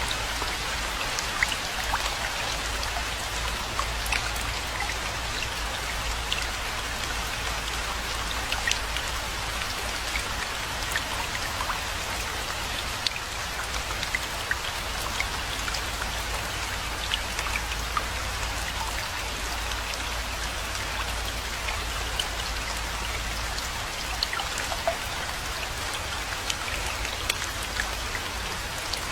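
Steady rain falling, a dense even hiss with many individual drops ticking sharply on a surface.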